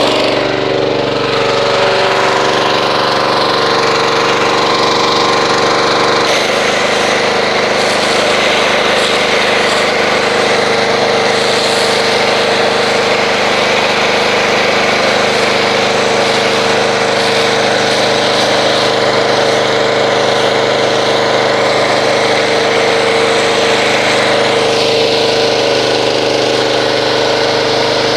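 Pressure washer starting up and running steadily, driving a foam cannon. About six seconds in the motor note changes and a broad spray hiss rises as foam is sprayed.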